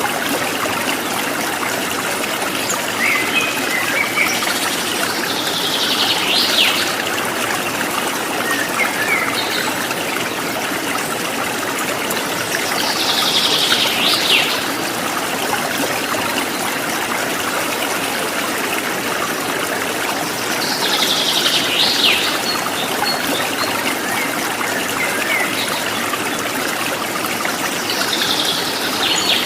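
Running water trickling steadily, with a bird singing a short high phrase about every seven or eight seconds and a few softer chirps in between.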